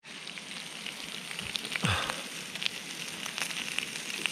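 Bacon frying: a steady sizzle with frequent small crackles and pops.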